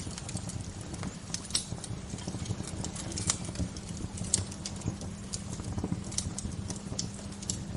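Wood fire crackling: irregular sharp snaps and pops, several a second, over a steady low rush of burning.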